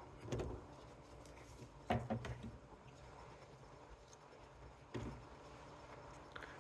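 Faint handling sounds on a workbench: soft knocks and rubbing of small parts and tools being picked up and set down, in three brief clusters.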